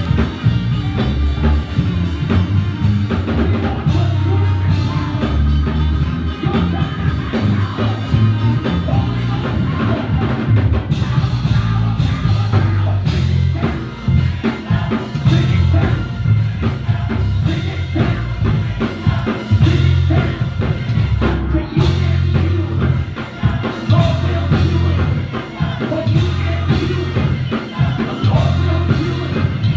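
Live church praise band playing: drum kit, bass and other instruments at a driving beat, with singing.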